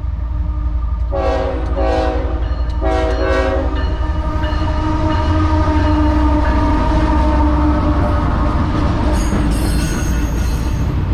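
CSX freight train's lead diesel locomotives passing close by: the horn sounds three blasts about a second in over a heavy, steady engine and rail rumble. A high, thin wheel squeal joins near the end.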